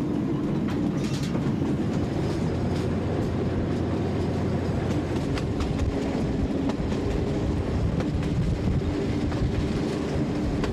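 Train running along the rails: a steady low diesel locomotive rumble with the wheels clicking over the rail joints.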